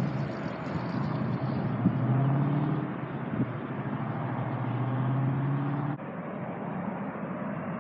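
Airbus A380 jet engines running as a steady rumble with a low hum, mixed with wind on the microphone. The sound changes abruptly about six seconds in.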